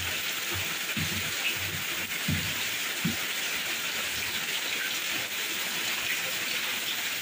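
Heavy rain falling steadily, an even hiss, with a few faint low thuds about two and three seconds in.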